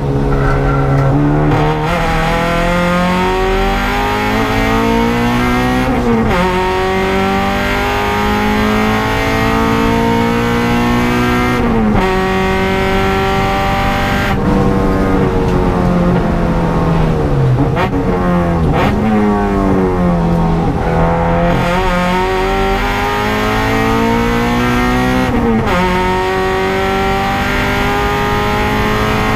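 Honda Civic EG race car's engine heard from inside the stripped cabin, driven hard on track: the pitch climbs under full throttle and breaks off sharply at each of several gear changes, then falls away as the car slows for corners.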